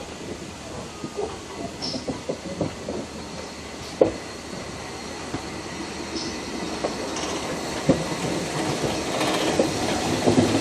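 Steam train's carriages running along the track: a steady rumble with irregular clicks and knocks from the wheels and rail joints. Two sharper knocks come about 4 and 8 seconds in, and the running grows louder near the end.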